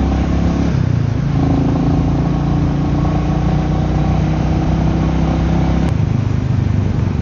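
Royal Enfield Meteor 350's single-cylinder engine running while the motorcycle is ridden, over a steady rush of wind and road noise. The engine note shifts about a second in, and there is a short click near the end after which the note changes again.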